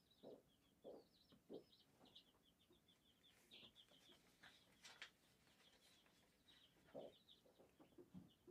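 Near silence with faint, continuous chattering of small birds: rapid, high chirps with no break. A few soft low knocks are heard near the start and again about seven seconds in.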